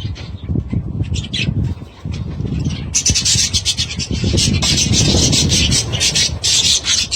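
Budgerigars chattering and squawking in quick chirps, the chatter turning dense and loud about three seconds in, over a low rumbling noise.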